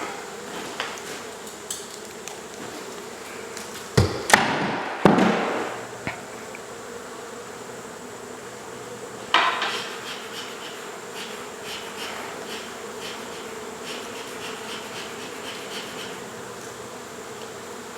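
Honey bees buzzing steadily around an opened wall hive. Sharp knocks cut through it: three close together about four seconds in, and another about halfway through.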